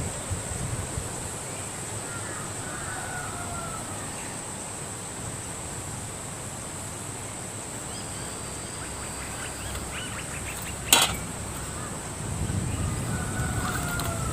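Outdoor background with a steady high-pitched insect drone, faint distant voices, and a single sharp knock about eleven seconds in.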